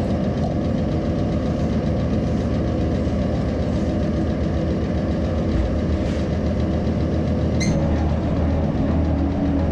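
Metal shaper running under power, a steady mechanical hum with a low knocking as it machines a steel block.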